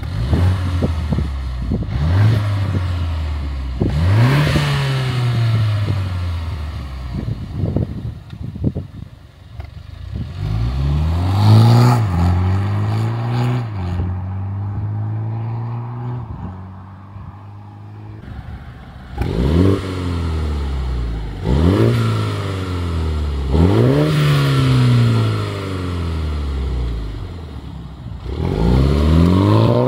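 Mini Cooper JCW's two-litre turbocharged B48 four-cylinder through a turbo-back exhaust with a free-flow downpipe and no catalytic converter, idling and blipped about seven times, each rev rising quickly and dropping back to idle. A few sharp cracks come about eight seconds in.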